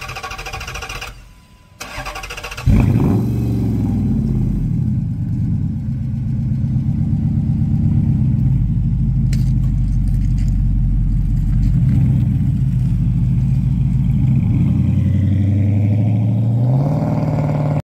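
2007 Dodge Charger SRT8 Super Bee's 6.1 L Hemi V8 with an aggressive aftermarket exhaust starting up. The starter cranks, the engine catches about three seconds in with a quick flare of revs, then idles loud and steady. Near the end the revs rise as the car pulls away.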